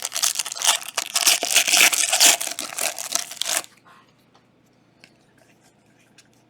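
A plastic trading-card pack wrapper being torn open and crumpled: a dense, loud crinkling crackle that stops suddenly about three and a half seconds in, leaving only a few faint ticks.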